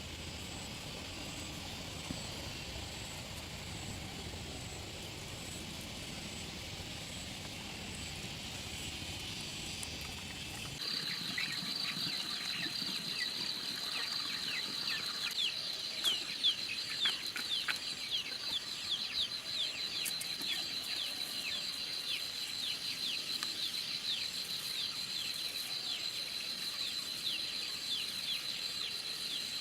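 Steady outdoor rumble at first. After an abrupt change about 11 s in, birds peep over and over in short, falling notes above a constant high-pitched buzz.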